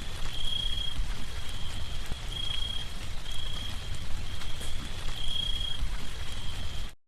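Outdoor bonfire burning with a steady hiss and faint crackles over a heavy rumble of wind on the microphone, while a thin high chirp repeats about once a second, seven times. The sound cuts off abruptly near the end.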